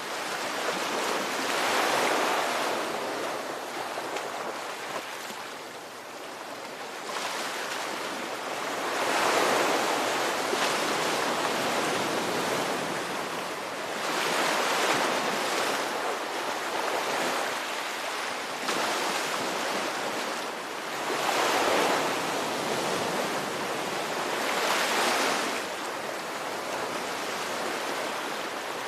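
Ocean waves, a steady wash of surf that swells and fades about five times, one wave every five to seven seconds.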